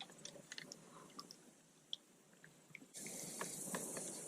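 Faint scattered drips and small ticks of water. About three seconds in, a steady high hiss comes in abruptly.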